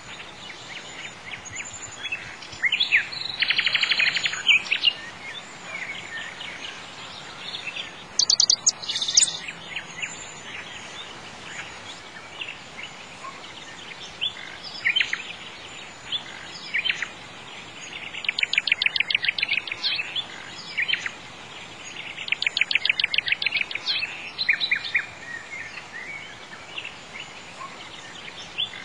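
Birds chirping and singing over a steady background hiss, with several fast trills of rapidly repeated notes, the loudest about 3 s in and again past the middle.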